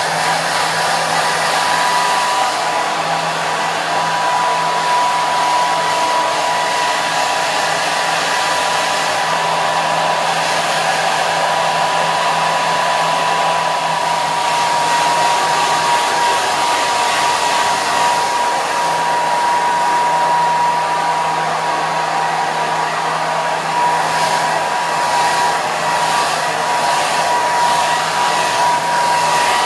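Hair dryer running continuously: a steady rush of blown air with a constant motor whine and a low hum beneath it.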